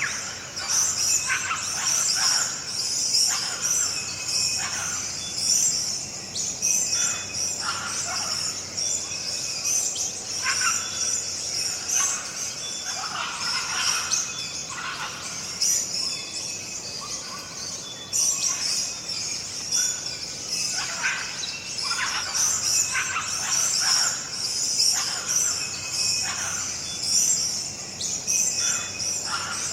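Daytime countryside ambience: many birds chirping and calling over a steady high drone of insects such as crickets or cicadas. There is a short dip about two-thirds of the way through, where the ambience changes slightly.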